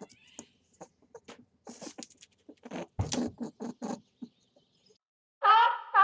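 Animal sounds: scattered short squeaks and clicks, then about five and a half seconds in, loud repeated honking calls begin, about two a second.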